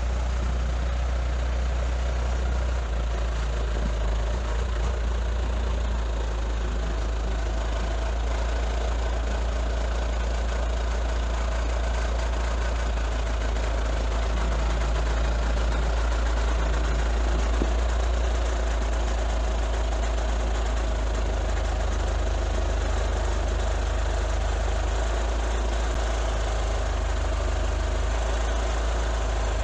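An engine running steadily, with a deep low drone.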